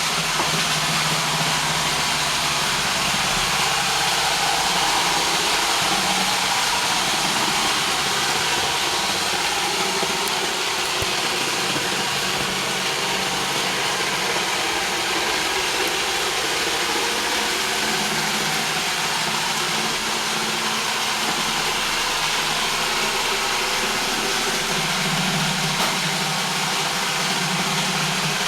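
Roomba robot vacuum running steadily: a continuous whirring hiss from its vacuum motor and brushes, with a low hum that swells a few seconds before the end.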